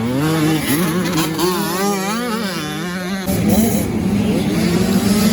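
85 cc motocross bikes running hard, their two-stroke engines revving up and down under throttle over a steady lower engine drone, the pitch pattern shifting about three seconds in.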